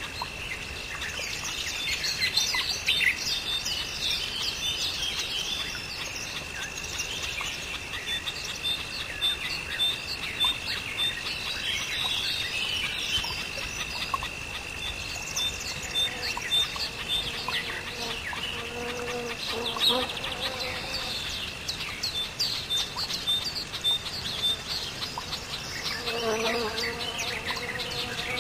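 Birds chirping over a steady high-pitched insect drone, with a regular ticking call repeating throughout. Lower, pitched calls join a little past halfway and again near the end.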